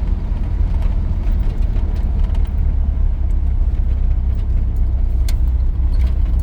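Cab noise of a 1983 GMC C2500 pickup under way: its 350 V8 and the road make a steady low rumble. There is a single sharp click about five seconds in.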